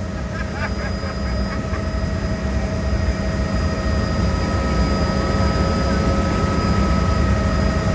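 Helicopter in flight heard from inside the cabin: a steady, heavy low drone from the rotor and engine, with several high steady whines from the turbine over it.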